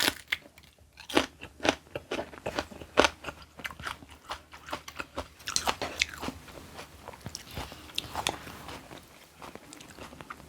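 Close-up crunchy biting and chewing of a raw green chili pepper, with irregular sharp crunches throughout.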